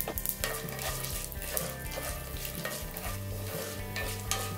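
Oil sizzling and crackling in a cast-iron skillet as peanuts, cashews, urad dal and chana dal fry for a South Indian tempering. A wooden spatula stirs the mix near the end.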